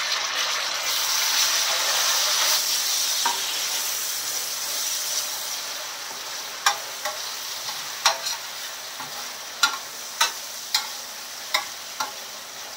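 Freshly added diced tomatoes sizzling in hot oil on a large stainless-steel tawa, the sizzle loud at first and slowly dying down as they cook. From about halfway, a metal spatula clicks and scrapes against the steel griddle several times as it stirs them.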